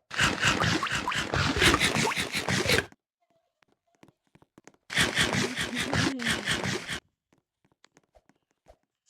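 Loud, close crackling of potato chips in two bursts: one of about three seconds at the start, and another of about two seconds from about five seconds in, with faint ticks between.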